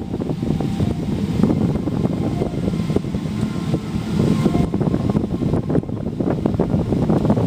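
Airliner noise: a steady low rumble with many quick clicks and rattles over it.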